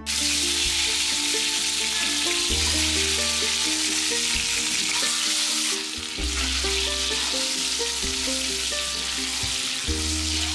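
Loud, steady sizzling of food frying in hot mustard oil in a nonstick pan, stirred with a spatula. It dips briefly about halfway through, then continues as whole boiled eggs fry and are turned in the oil.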